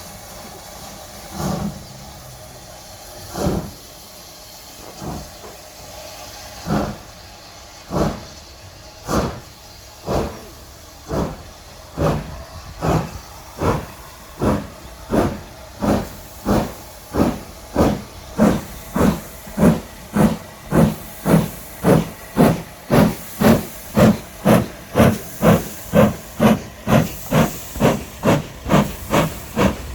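GER Class Y14 (J15) 0-6-0 steam locomotive exhausting as it starts away from a standstill, over a steady hiss of steam. The chuffs begin about two seconds apart and quicken and grow louder as the train gathers speed, reaching about two a second near the end.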